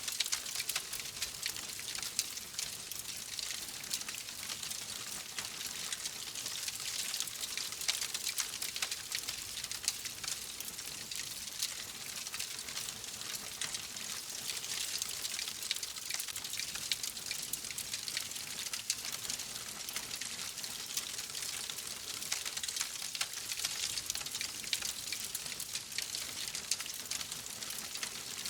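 Wood fire crackling in a fireplace: a dense, steady run of small pops and snaps over a soft hiss.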